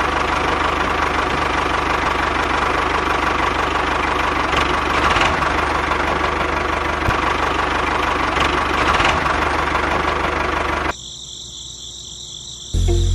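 Small engine of a homemade mini tractor running steadily with a fast, even beat. It cuts off abruptly about eleven seconds in, leaving a quieter stretch of steady high-pitched tones.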